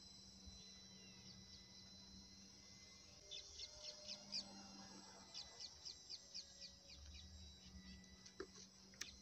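Faint bird calls: two quick runs of about six short downward chirps each, the first about three seconds in and the second about five seconds in, over a steady faint high hiss.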